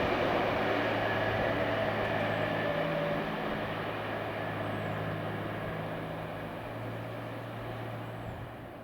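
A train running past and receding: steady rolling noise with a low hum that slowly dies away, then drops off quickly near the end.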